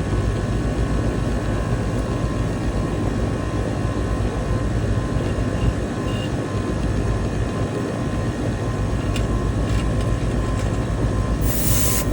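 Commercial Lennox rooftop HVAC unit running just after startup: a steady compressor hum with condenser fan noise. A brief hiss near the end.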